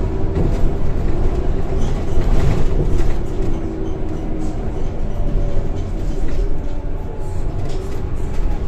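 Scania K230 single-deck bus on the move, heard from inside the cabin: a steady low engine and road rumble with a faint whine from the ZF gearbox that drifts in pitch.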